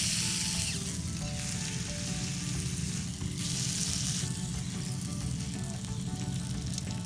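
Food frying in a campfire frying pan, a steady sizzle that flares louder at the start and again about three and a half seconds in.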